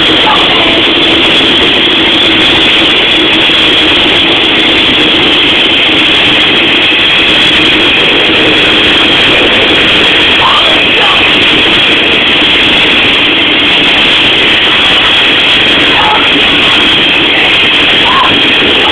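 A coal train's wagons running past at close range: a loud, steady din with a constant high-pitched tone over it, overloading the phone's microphone.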